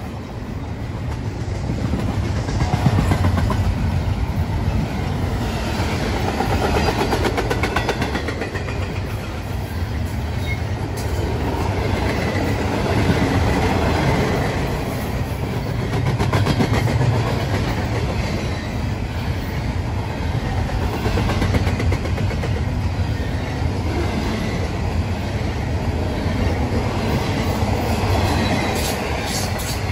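Double-stack intermodal container train rolling past close by: a steady rumble and clatter of steel wheels on rail, with fine rapid clicking, swelling and easing a little as the well cars go by.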